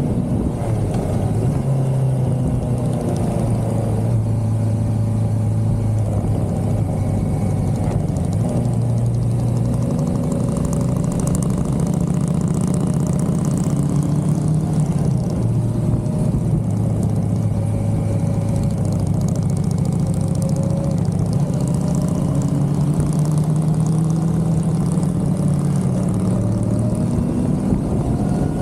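Motorcycle engine, the 1982 Suzuki GS550L's air-cooled inline-four, running under way, its pitch rising and falling several times with throttle and gear changes.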